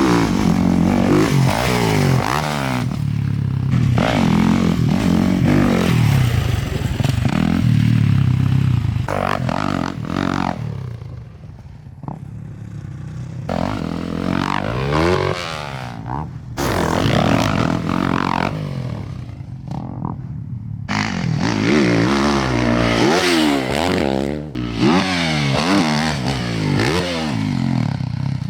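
Motocross dirt bike engine revving hard and easing off again and again as the bike is ridden, its pitch rising and falling; it drops away briefly about eleven seconds in and again near twenty seconds before climbing back up.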